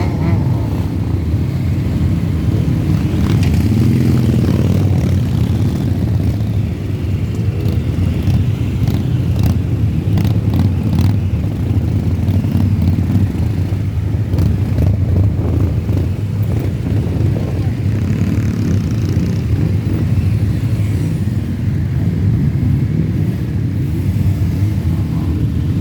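Many motorcycles riding together in a large convoy: a steady, loud low engine rumble with an occasional rev rising and falling.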